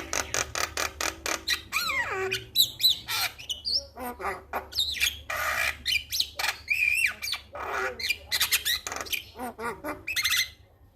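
Male Javan myna (jalak kebo) singing: a fast run of clicking chatter, then a varied mix of sliding whistles and harsh squawks, stopping abruptly near the end.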